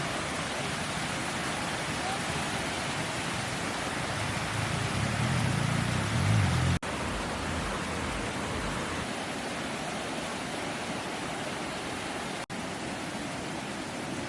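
Steady heavy rain, an even dense hiss. A low rumble swells about halfway through, and the sound cuts out for an instant twice.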